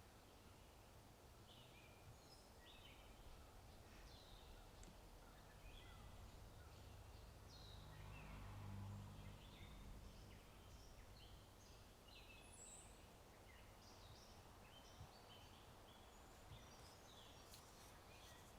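Faint birdsong, many short chirps and trills from several birds, over a low steady rumble of wind that swells briefly about halfway through.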